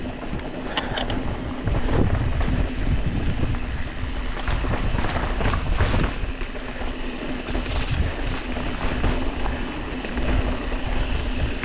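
Wind buffeting an action camera's microphone while a mountain bike is ridden up a rough trail, with uneven rumble and knocks from the bike and a steady low hum underneath.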